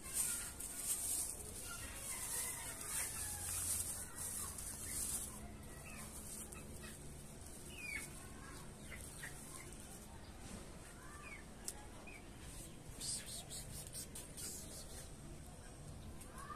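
Scattered short, high bird chirps throughout. Bursts of rustling handling noise come in the first few seconds and again about two-thirds of the way through.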